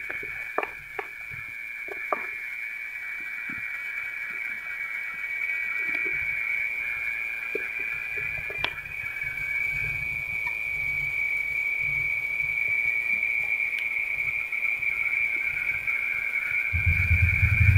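Burning coconut coir crackling with scattered sharp pops, most of them in the first few seconds, over a steady high-pitched hiss. A low rumble comes in partway through and swells loudly near the end.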